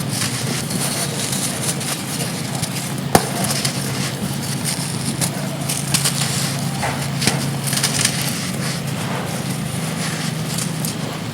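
Blocks of dry pressed sand being crumbled and crushed, an irregular run of crunching and crackling with one sharp snap about three seconds in. Beneath it runs a steady background hiss with a constant low hum.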